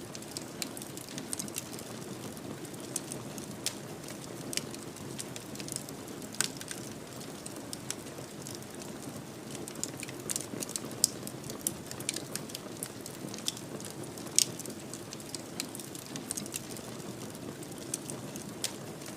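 Wood fire burning steadily in a fireplace, with a low rush of flame under frequent irregular sharp crackles and pops.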